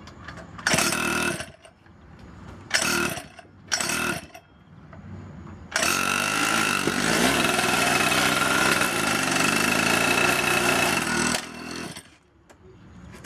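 Two-stroke pocket bike engine revved in three short blips, then held at high revs for about six seconds before dropping back. It is running through a muffler just welded back on over a hole that had made it very loud.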